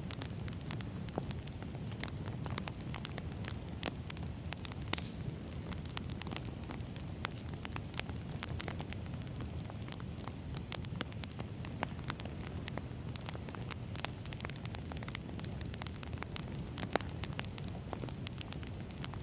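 Burning firewood crackling: a steady low rumble of the fire with irregular sharp pops and snaps, a few louder ones about five seconds in and near the end.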